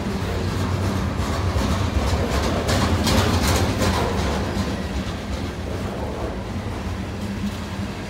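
A train rolling past: a steady low rumble with clicking wheels, the clicks busiest and loudest from about two and a half to four seconds in.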